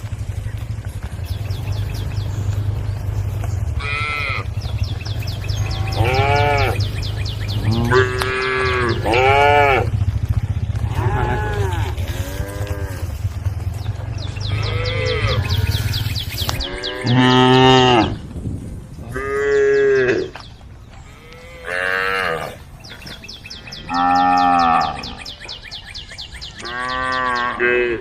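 A cow mooing again and again, about a dozen drawn-out calls that each rise and then fall in pitch. A steady low hum runs underneath and stops a little past halfway.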